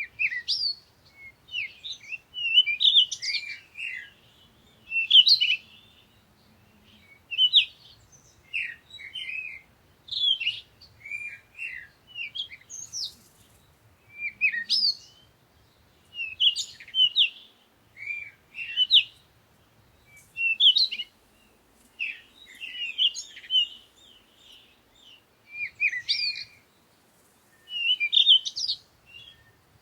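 Songbirds chirping and singing in a forest: short bright chirps and quick phrases, one after another every second or so.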